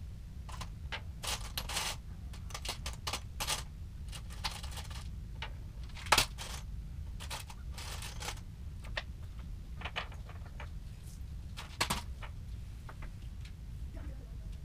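Irregular light clicks, taps and knocks of hard objects being handled, with a louder knock about six seconds in and another near twelve seconds, over a steady low hum.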